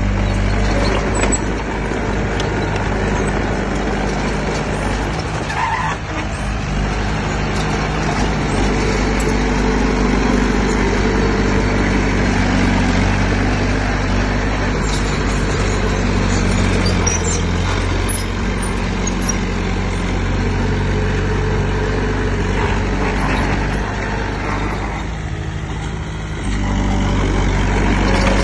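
Heavy diesel engine of earthmoving equipment running, with its note changing several times as it works and easing briefly near the end.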